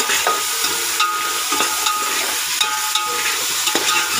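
Green masala paste of ground garlic, ginger and green chilli sizzling in hot oil on fried onions in a large pot, with several sharp clinks as it is stirred in.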